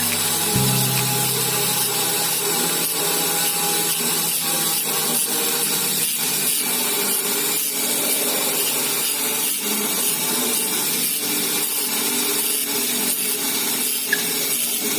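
Steady rasping strokes, about two a second, as a small saw or file is worked back and forth to cut through a lovebird's leg ring. A low hum fades out in the first couple of seconds.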